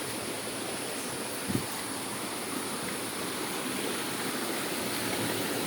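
Stream water rushing steadily at the top of a waterfall, an even hiss of moving water. A brief low thump about one and a half seconds in.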